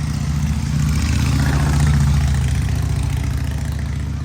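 Car engine idling close by, swelling slightly about a second in and then settling back.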